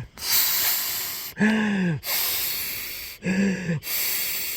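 A man blowing hard by mouth into the valve of an inflatable sleeping mat to inflate it. There are three long hissing exhalations, each broken off by a short voiced gasp for breath.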